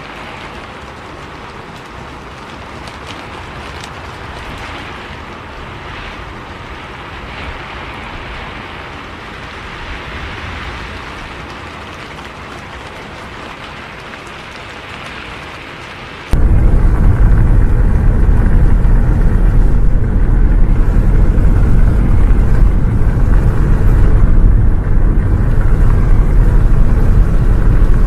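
Steady rain hiss. Just past halfway it cuts abruptly to a much louder, deep, steady rumble of bus engine and road noise, heard from inside the bus.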